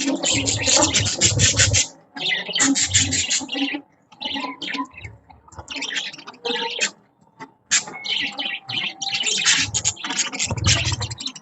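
A group of budgerigars chirping and chattering in busy bursts of overlapping calls, with short pauses between bursts and low thuds under some of them.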